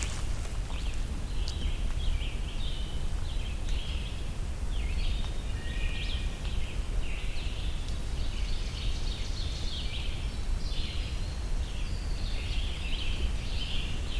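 Songbirds singing in the forest, among them a scarlet tanager giving short phrases again and again, its song blending in with the other birds' songs over a low steady rumble.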